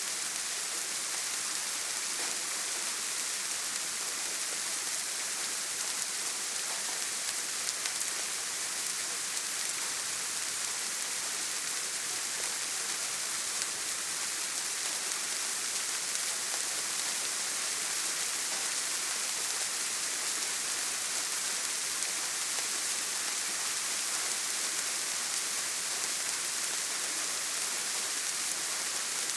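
Steady heavy rain falling on a tin roof: an even, constant hiss of drops, with no thunder.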